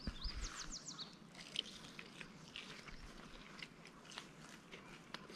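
A person chewing a mouthful of fried perch taco: faint, irregular crunching and wet clicking of the bite.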